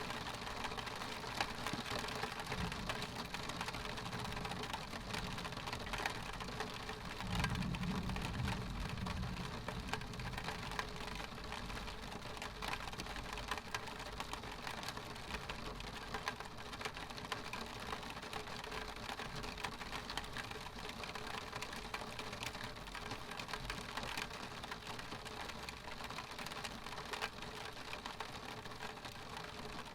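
Rain on a window pane: a steady hiss with many small drop ticks. A low rumble of distant thunder comes about seven seconds in and lasts a couple of seconds.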